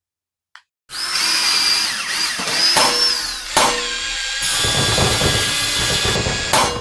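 A power tool running with a high, whining motor pitch that rises and falls. It starts suddenly about a second in, changes pitch a few times, and stops near the end.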